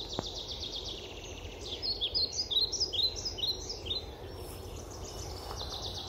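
Songbirds singing: a fast high trill, then a run of short falling notes at about four a second, and the trill again near the end.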